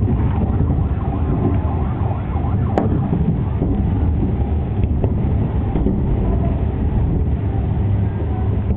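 Continuous low rumble of a fireworks barrage heard through window glass, with a single sharp crack about three seconds in.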